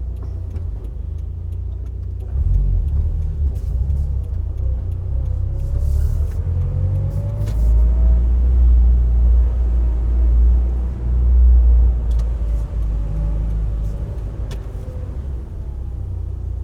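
Subaru Impreza WRX STI Spec C's turbocharged flat-four and aftermarket A-RM exhaust running at speed with heavy tyre and road rumble. The engine note rises in pitch and grows louder as the car accelerates, then eases off near the end.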